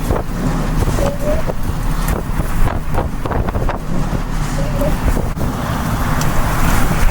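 Storm wind buffeting the microphone in a heavy, churning rumble, with many sharp clicks and knocks scattered through it.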